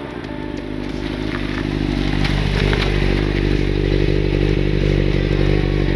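KTM 1290 Super Adventure S V-twin with a Wings titanium exhaust, baffle fitted, running at a steady engine speed. It grows louder over the first two seconds, then holds steady, with a few light clicks partway through.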